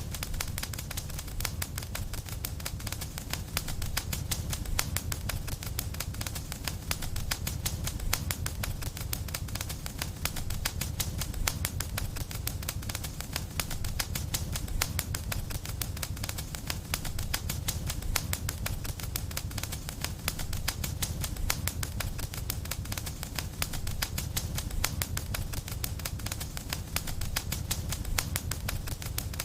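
Wood fire crackling in a fireplace: a dense, continuous stream of small pops and snaps over a steady low rumble of the flames.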